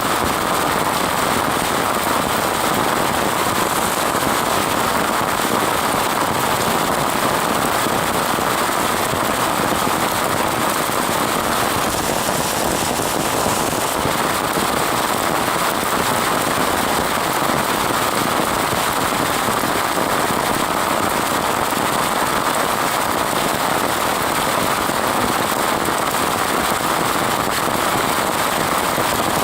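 Rain falling steadily on a swamp: a dense, even patter of countless drops that does not let up.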